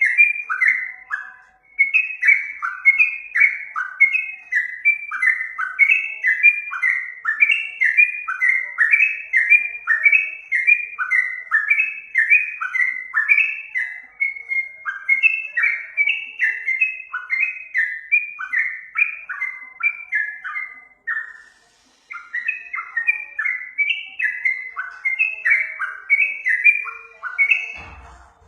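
Yellow-vented bulbul (trucukan) singing a fast, unbroken run of short bubbly notes, each dropping in pitch. The song breaks off briefly about a second and a half in and again about 21 seconds in.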